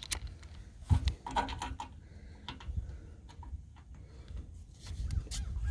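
Scattered light clicks and knocks of parts and tools being handled, the sharpest about a second in, while a self-tapping screw and bracket are set in place on the truck before drilling.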